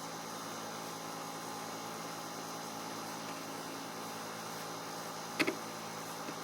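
Steady electrical hum with a hiss, holding several fixed tones, broken by a short double click about five and a half seconds in.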